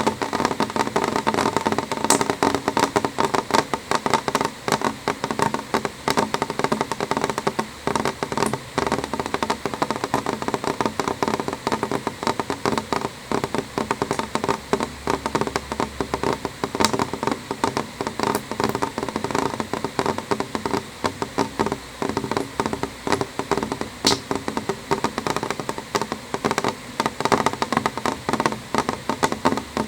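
Gentle rain pattering on a window pane: a dense, steady stream of small drop taps on the glass.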